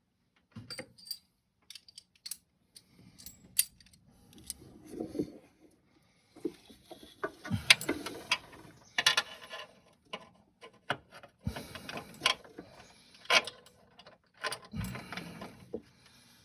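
Hand tools working on an engine mount: irregular metallic clicks, clanks and short rattling bursts, busier in the second half.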